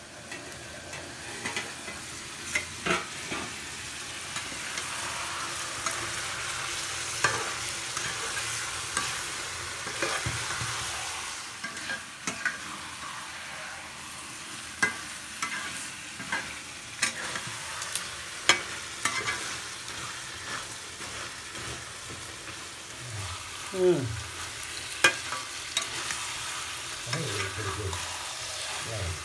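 Chicken curry sizzling as it fries in a pan while a spoon stirs and scrapes it, with frequent sharp clicks and knocks against the pan. Two short falling tones sound about three-quarters of the way through.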